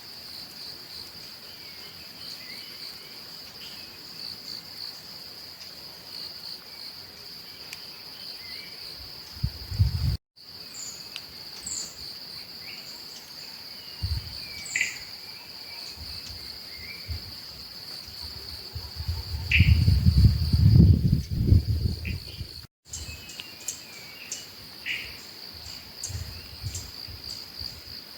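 Tropical rainforest ambience: a steady, high, pulsing insect drone with scattered bird chirps and calls over it. A low rumble swells in several times, loudest for a few seconds past the middle. The sound drops out completely for a moment twice.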